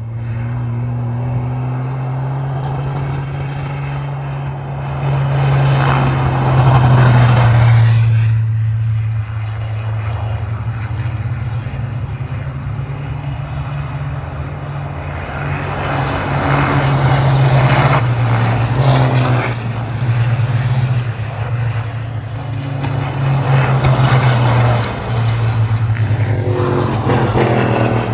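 Racing trucks' big-turbo diesel engines running flat out under a steady low drone, swelling loud three times as trucks pass.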